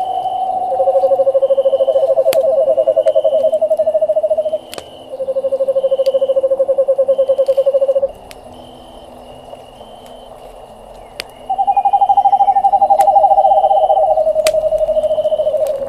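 Long, even owl trills, each lasting a few seconds, overlapping and stepping between slightly different pitches. A pause comes in the middle, then they start again. Sharp pops of a crackling campfire sound throughout.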